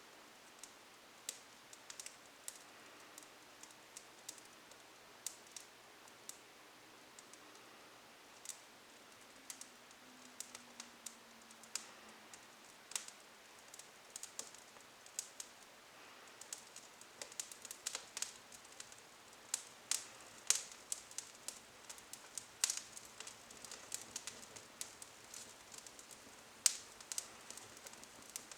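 Fire of small twigs in a fireplace crackling: sharp, irregular pops and snaps over a faint hiss, coming more often in the second half.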